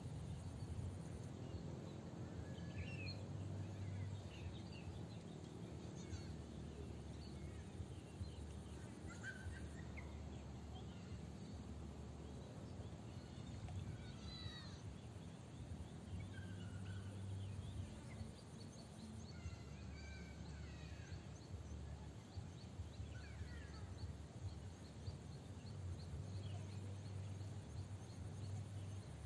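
Scattered short bird calls, faint chirps and quick glides coming and going, over a steady low rumble.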